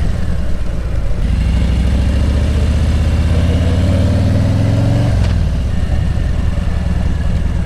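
Vehicle engine accelerating, its pitch rising steadily for about four seconds before dropping abruptly about five seconds in, over a steady low rumble.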